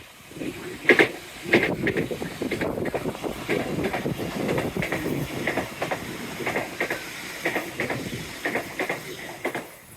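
A train running past on the line, its wheels beating over the rail joints with a repeated "didum didum" clickety-clack.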